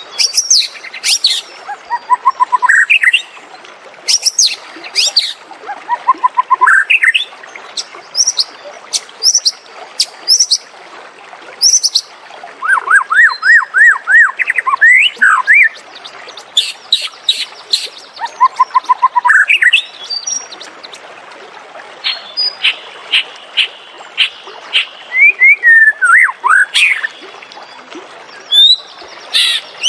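White-rumped shama singing: a run of loud, varied whistled phrases, each a few quick notes or sweeping glides, with short pauses between them.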